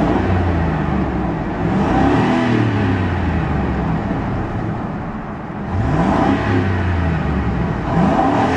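A Ford 5.4-litre Triton V8 revved several times: the engine note rises at the start, again about two seconds in, about six seconds in and near the end, settling back between revs.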